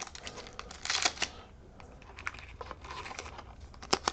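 Trading cards being handled on a table: a run of light clicks and rustles as the cards are slid, stacked and set down, with a denser rustle about a second in and a sharp click near the end.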